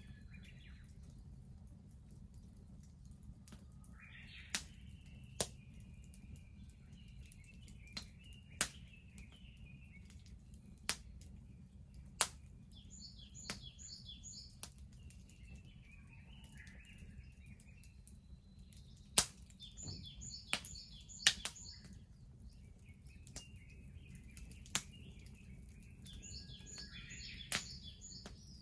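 Wood bonfire crackling, with about a dozen sharp pops scattered through, over a low steady rumble. Birds sing alongside: warbling phrases, and three bouts of rapid repeated chirping.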